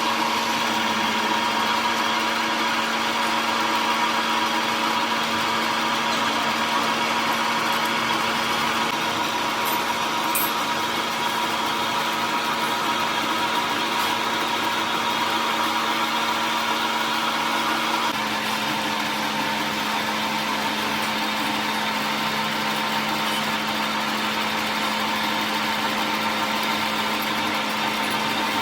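A machine motor running steadily, with a constant hum and a higher whine over a noisy wash, its lower hum dropping slightly in pitch about eighteen seconds in.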